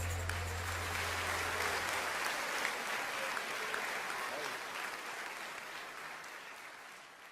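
Audience applauding at the end of a song, the clapping fading steadily away. A low held note from the last chord dies out about two seconds in.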